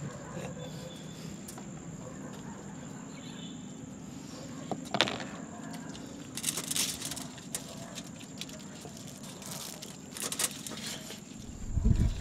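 A steady, high, thin insect trill, typical of crickets, with a few brief rustles or crinkles about halfway through.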